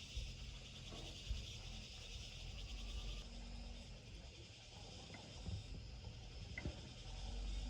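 Insects chirring steadily in the background, with a few faint clicks over a low rumble.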